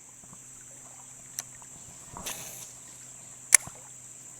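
Steady high-pitched insect chorus. A short rush of noise comes about halfway through, and a single sharp click near the end is the loudest sound.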